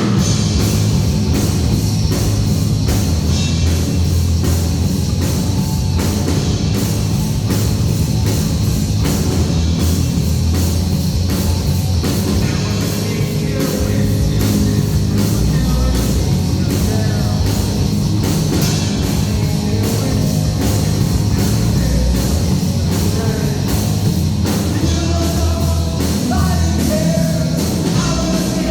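Loud heavy metal band playing with a steady drum beat, with a voice singing over it in the later part.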